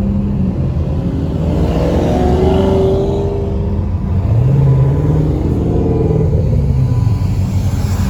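Performance car engines and exhausts running in traffic, with a rev that rises and eases off twice.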